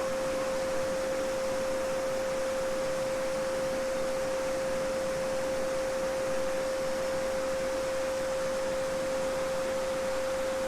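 A steady 528 Hz pure sine tone (the solfeggio frequency) holding one pitch, over the even rushing of a babbling brook.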